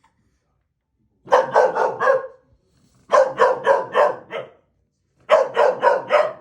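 A dog barking in three rapid volleys of about five sharp barks each, with short pauses between them.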